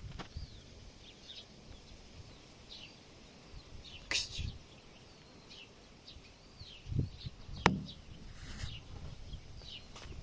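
Small birds chirping in short, scattered calls, with a few sharp clicks and low knocks about four and seven seconds in.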